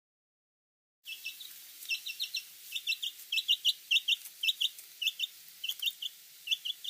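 Squirrel alarm calls: rapid, short, high chirps in pairs and triplets, beginning about a second in.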